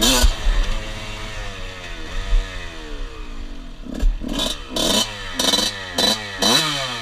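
Dirt bike engine revving: a loud burst right at the start with the pitch sliding down, then about five quick throttle blips in the second half, each rising and falling in pitch.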